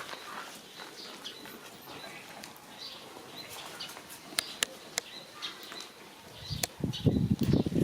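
Faint, scattered chirps of small birds, with a few sharp clicks. Near the end a loud, low rumbling noise comes in.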